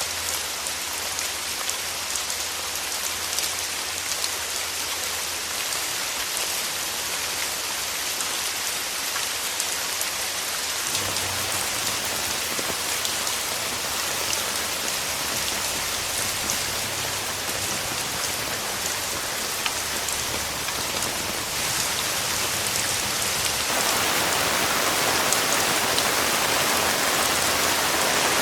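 Steady rain falling, a dense even patter of drops, growing louder about three-quarters of the way through.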